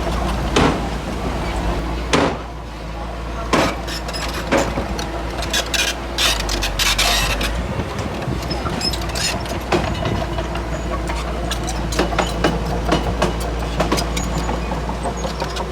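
Heavy diesel earthmoving machinery running steadily with a low rumble, and repeated sharp clanks and knocks from the machine working soil, rattling more densely about six seconds in.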